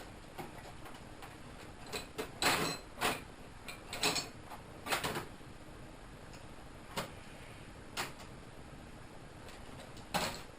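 Hand tools being rummaged through while searching for side cutters: irregular clinks, clacks and knocks, about a dozen separate ones, most of them bunched in the first half.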